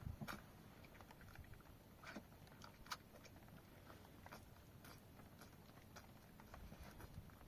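Near silence with faint, scattered small clicks and ticks, the sharpest about three seconds in.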